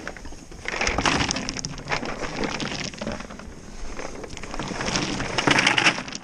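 Range cubes (cattle cake) poured out of a container onto the ground in two long pours, a dense rattling patter of many small pellets.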